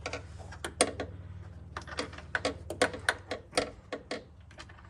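Irregular clicks and taps, several a second, from hand tools working a screw into a hard-to-reach spot in a car's wheel well, over a steady low hum.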